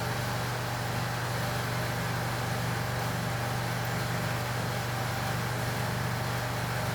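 A steady low mechanical hum, even and unchanging throughout, with no knocks or clicks.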